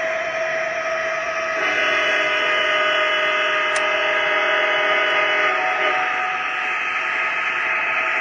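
MTH model Union Pacific ES44 diesel locomotive's onboard sound system: a steady diesel running sound, with a multi-note horn blown for about four seconds starting near 1.5 seconds in.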